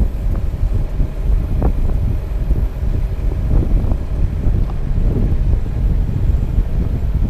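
A vehicle driving, with a steady low rumble and wind noise on the microphone, and a few brief knocks or rattles over it.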